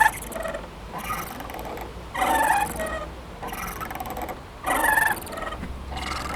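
Playground swing squeaking in a steady rhythm as it swings back and forth. A louder pitched squeak comes about every two and a half seconds, with a softer one halfway between on the return swing.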